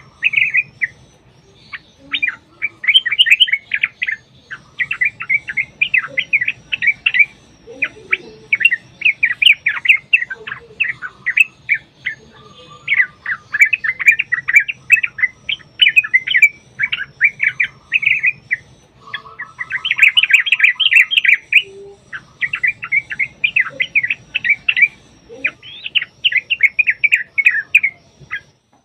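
Yellow-vented bulbuls (trucukan) singing a loud, fast, bubbly chattering song. The phrases follow one another with only brief pauses, in the long rolling 'ropel' style of birds singing against each other.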